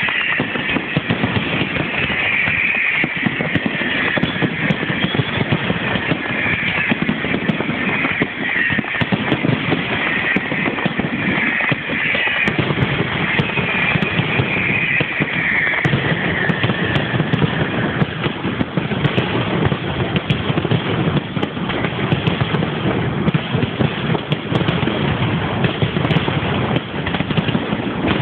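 Fireworks display going off: a continuous, dense crackle of small bangs and pops.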